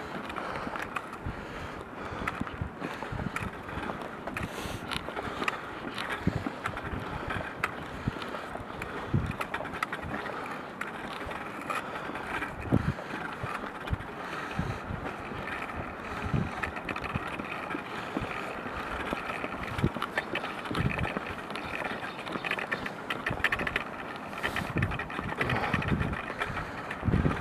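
Footsteps on the snow-covered ice sheet of a frozen river, crunching and crackling underfoot with many irregular small cracks and clicks and soft thuds of each step.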